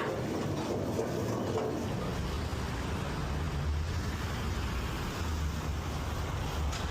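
Steady low rumble with a background hiss, no music or speech standing out.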